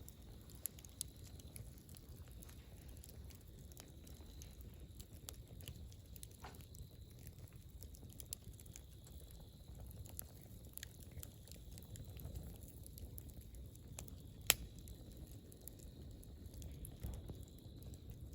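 Wood campfire burning: scattered faint crackles and pops, with one sharper pop about two-thirds of the way through, over a low steady rumble.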